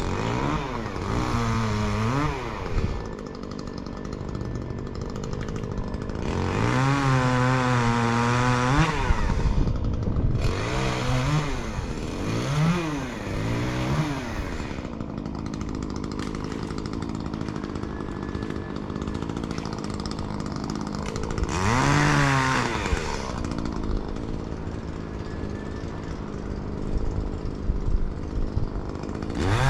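Chainsaw engine idling and repeatedly revving up and dropping back, about five times, as it cuts.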